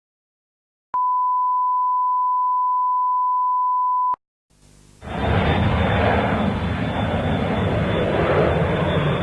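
A steady beep tone lasting about three seconds, cutting off abruptly. After a short gap a loud, steady roar of airplane engine noise begins about five seconds in.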